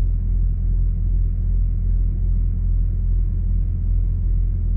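A steady low rumble that holds an even level throughout, with no breaks or changes.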